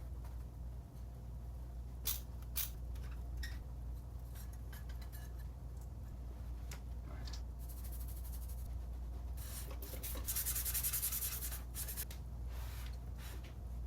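Rubbing and scrubbing on a hard part, with scattered small clicks and knocks and a longer, louder stretch of rubbing about ten seconds in, over a steady low hum.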